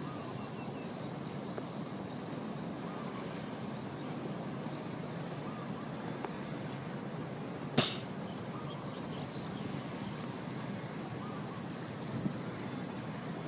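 Birds chirping faintly and intermittently over a steady low background rumble, with one sharp click about eight seconds in.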